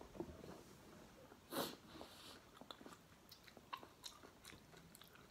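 Faint close-up chewing: a person eating a mouthful of food, with small mouth clicks throughout and one short, louder noise about one and a half seconds in.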